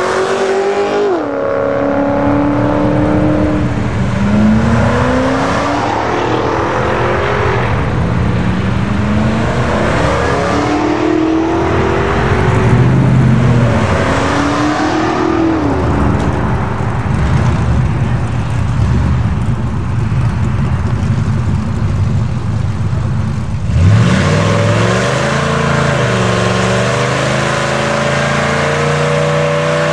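Car engines revving hard in burnouts over the noise of spinning tyres, the pitch climbing and dropping again and again. About 24 seconds in the sound changes abruptly to a Mercury Marauder's V8 held at high revs, climbing, as its rear tyres spin in a burnout.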